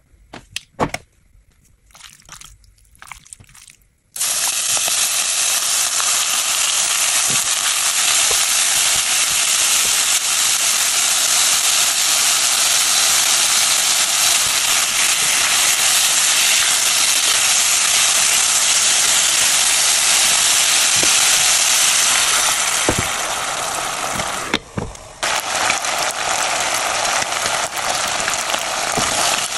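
Chicken skins sizzling steadily as they fry in a saucepan, rendering out their fat into chicken oil. The sizzle starts suddenly about four seconds in, after a few faint knocks, and breaks off briefly near the end.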